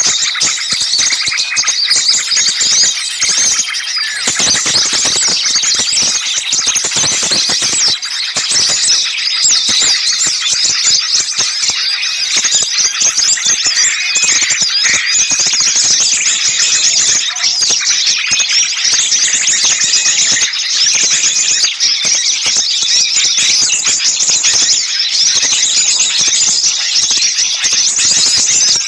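Dense chorus of many small songbirds calling at once: rapid, high-pitched, overlapping chirps and trills with no break. These are agitated, noisy calls of the kind used in a lure recording to draw small birds in.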